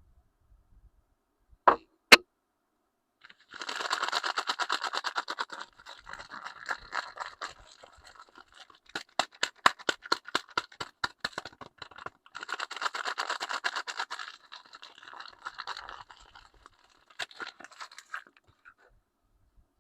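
Soap packaging being unwrapped by hand: two sharp clicks, then bursts of crinkling and tearing of the wrapper, with quick runs of sharp ticks and taps in between.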